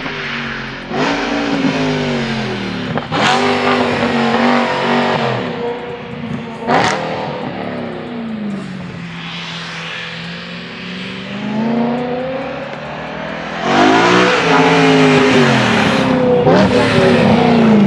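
A sports car's engine revving hard as it drives past, its pitch climbing and then breaking sharply at several gear changes. It is loudest near the end.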